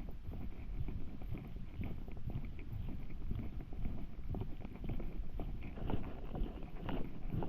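Footsteps walking along a dirt path: a run of soft, irregular thuds, over a low rumble of wind on the microphone.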